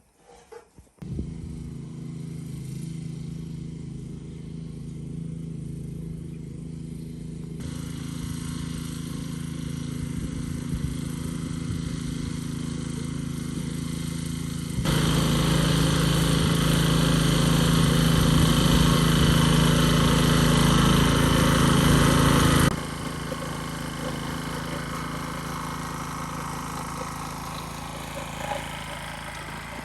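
A farm machine's engine running steadily with a low, even hum. It gets abruptly louder partway through, then drops back to the earlier level about three-quarters of the way in.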